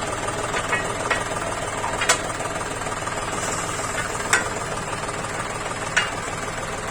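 Diesel farm-machine engine running steadily, with a few sharp metallic clacks over it, the loudest about two and four seconds in.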